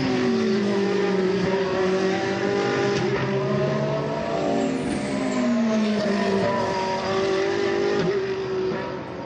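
GT3 race car engines at racing speed, more than one car heard at once, each engine note falling in pitch twice and then holding steady.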